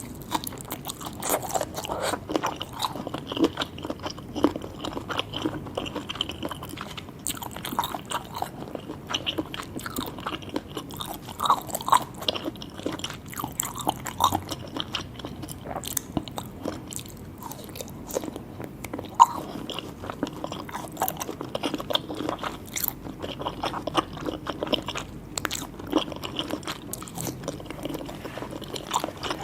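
Close-up eating sounds of seafood being bitten and chewed: irregular crunches and small mouth clicks.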